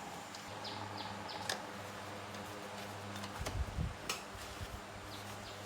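Light clicks and taps of small metal tools and parts being handled during motorbike repair, with a few dull knocks about three and a half seconds in, over a steady low hum.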